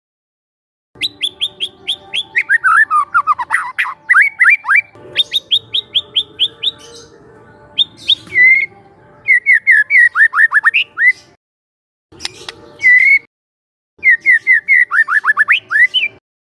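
Young white-rumped shama singing: fast runs of repeated chips and quick downward-sweeping whistles, delivered in several loud bursts broken by short silences.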